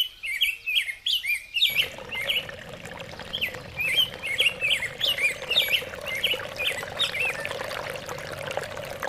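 Small birds chirping: many short swooping chirps, a few a second, that die away near the end. A steady hiss with a faint hum comes in about two seconds in.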